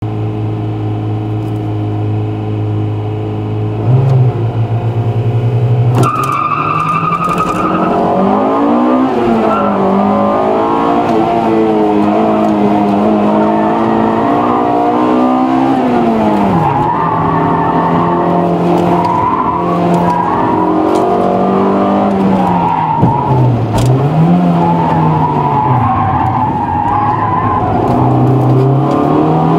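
Honda Integra Type R's four-cylinder engine heard from inside the cabin: a steady note, then revs held briefly, then hard acceleration from about six seconds in, with engine speed rising and falling over and over through a cone slalom. Tyres squeal at times.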